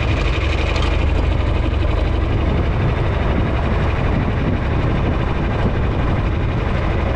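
Tractor engine running steadily at an even speed, a deep continuous engine sound.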